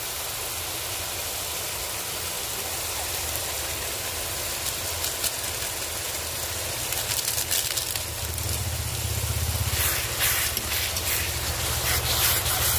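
Masala frying in hot oil in a metal kadai, a steady sizzle, with spatula scrapes from stirring in the second half. Underneath runs a low rumble that grows louder about two-thirds of the way through.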